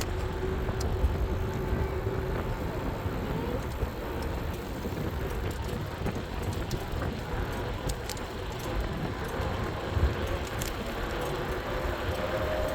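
Wind rumbling on the microphone and tyre noise from an e-bike being ridden, with a faint steady whine from its electric motor that shifts in pitch a few seconds in.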